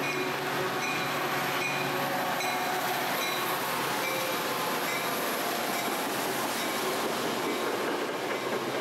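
Metra commuter train moving through the station: a steady rush of wheel and rail noise, with a light tick repeating about every two-thirds of a second.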